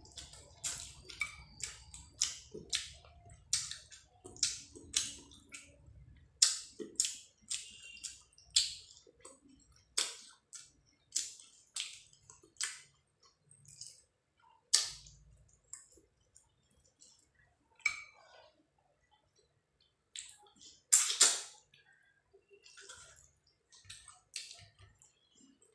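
Close-up chewing of rice and fish curry, with short sharp mouth clicks coming irregularly, about one or two a second, and a louder cluster about twenty-one seconds in.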